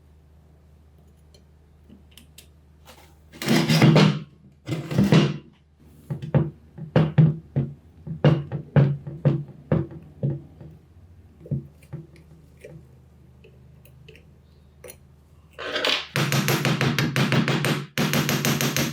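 Metal parts knocked and clattered by hand on a workbench, a series of short knocks and taps. Near the end a power tool starts a loud, rapid, continuous hammering, stops briefly and starts again.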